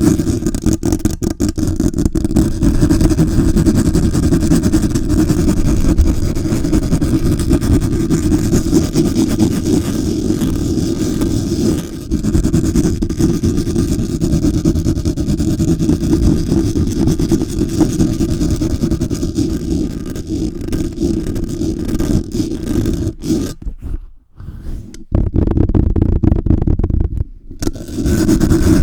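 Fast, aggressive handling of a Blue Yeti microphone and its cover, heard as a loud, dense low rumble with rapid flutter, close on the microphone. It stops briefly twice near the end.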